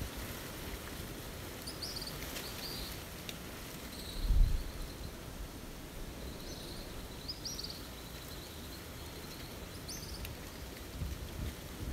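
Fledgling birds giving short, high begging chirps in small clusters every few seconds while waiting to be fed by a parent, over a steady outdoor background hiss. A brief low thump about four seconds in is the loudest sound.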